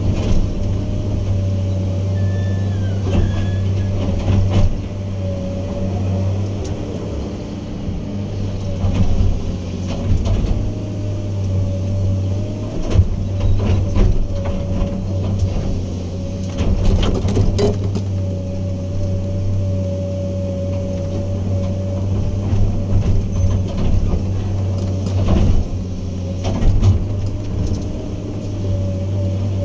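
Diesel engine of heavy earthmoving equipment running steadily with a deep hum and a higher, slightly wavering whine over it. Short knocks and clanks come irregularly throughout, in clusters around the middle and again near the end.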